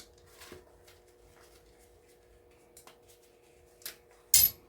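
Small brass plug pins being handled: a few faint clicks, then one brief loud metallic clink near the end. A faint steady hum runs underneath.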